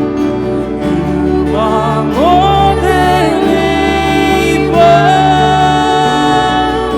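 Christian worship band music: sustained chords under a lead melody that slides up and holds about two seconds in, then slides up again near five seconds.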